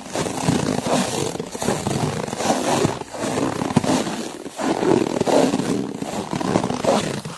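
Footsteps crunching and compressing through snow, an irregular crackly crunch with brief pauses between steps. It cuts off abruptly at the end.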